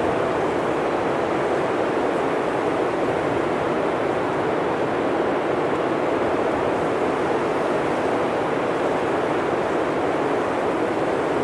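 Blizzard wind blowing steadily, a constant dense rushing noise.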